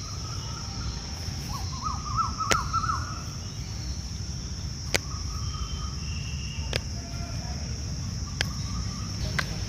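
Birds calling in the background with warbling chirps, over a steady high whine and a low rumble. Several sharp, separate clicks are scattered through.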